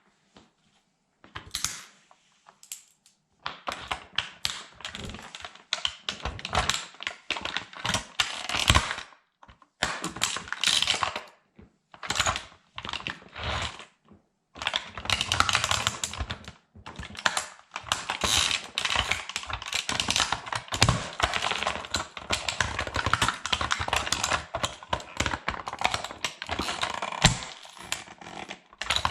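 A plastic toy military truck being crushed under a sandal sole: dense crackling, clicking and snapping of plastic in bursts with short pauses between them, starting a few seconds in.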